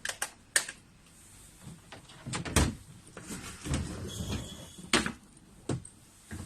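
Scattered sharp clicks and knocks with low, dull thuds in between: hands working on a washing machine's panels and parts.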